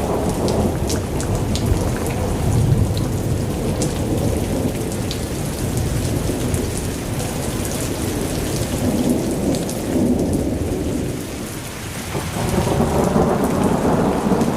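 Thunderstorm: heavy rain falling with a continuous low rumble of rolling thunder. The rumble eases about twelve seconds in, then swells again near the end.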